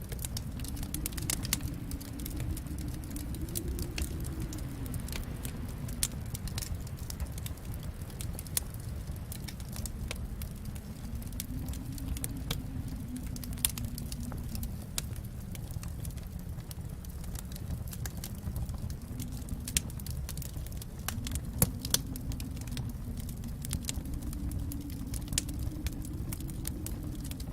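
Wood fire in a fireplace crackling, with frequent sharp pops over a low rumble of flame that swells and eases every few seconds.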